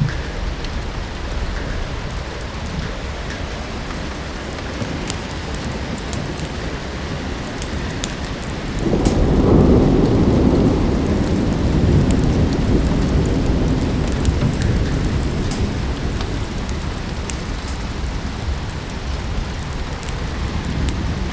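Steady rain with scattered sharp crackles from a wood fire in a fireplace. About nine seconds in, a roll of thunder swells up and fades away slowly over several seconds.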